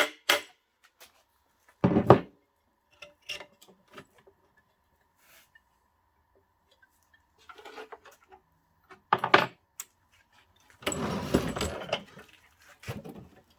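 Metal parts being handled as the rod that holds a locomotive's traction motor in place is worked free and pulled out: scattered clicks and knocks, two sharp knocks about two and nine seconds in, and a scraping rattle near the end.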